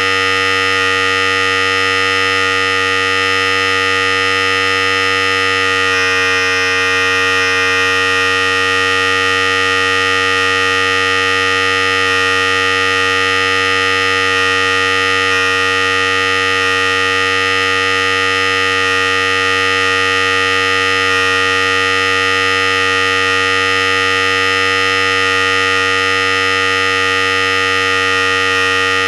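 Philips Series 5000 electric hair clippers running continuously with a steady, even buzz. The buzz turns a little brighter for a couple of seconds about six seconds in.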